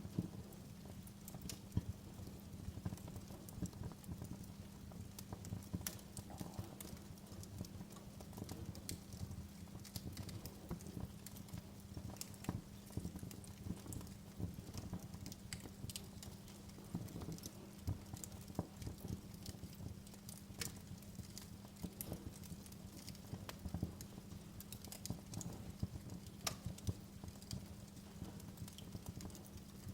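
Wood fire in a fireplace crackling, with frequent irregular snaps and pops over the low rumble of the flames.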